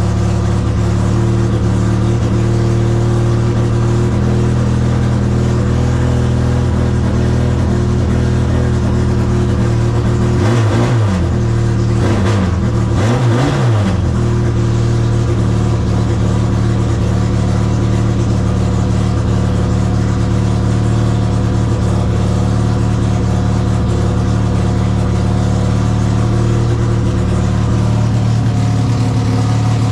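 1963 MGB race car's 1.8-litre B-series four-cylinder engine running steadily just after a cold start, warming up. The engine note briefly rises and falls twice about a third of the way in, from short throttle blips.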